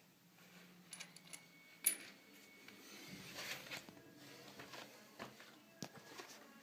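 Faint clicks and light metallic clinks, as of small metal parts being handled, with the sharpest click about two seconds in and a short stretch of rustling handling noise a second later.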